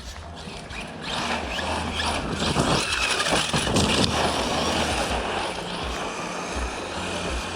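Arrma Kraton 6S RC truck driving, its motor giving a steady whine while a rush of noise swells about a second in and eases off after about five seconds as it runs past.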